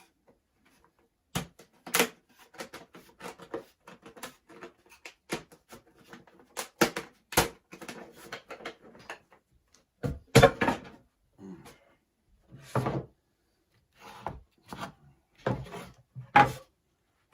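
Wooden beehive frames and their waxed foundation being handled and fitted: a long run of sharp clicks, taps and knocks, loudest about ten seconds in.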